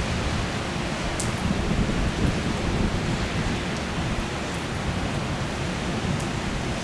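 Heavy rain pouring down steadily, with a few single drops ticking close by.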